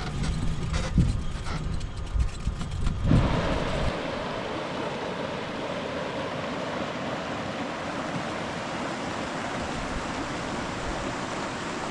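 River water flowing, a steady even hiss. For the first few seconds it is mixed with low wind rumble and knocks on the microphone, which stop suddenly about three to four seconds in.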